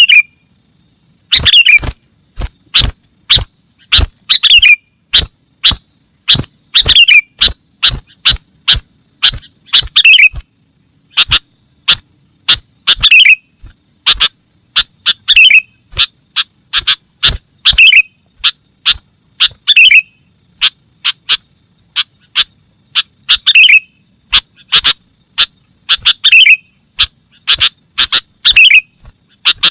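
Sooty-headed bulbul calls played as a bird-trapping lure: rapid loud sharp notes with a falling call about every two seconds. Steady high insect trilling runs underneath.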